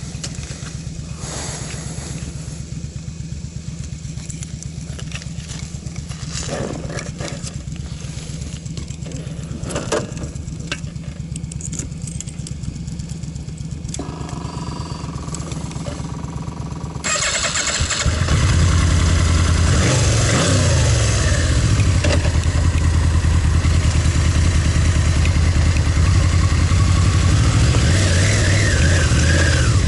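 Motorcycle engine idling steadily, with a few knocks. About 17 seconds in, a second, louder motorcycle engine starts up close by and keeps running.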